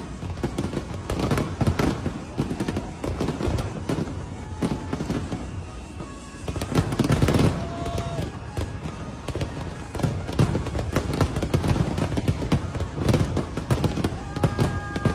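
Fireworks display going off in a dense run of bangs and crackles, with a louder cluster about seven seconds in.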